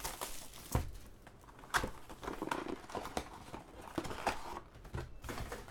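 Trading card packs and a hobby box being handled: irregular sharp taps and knocks with light rustling of packaging.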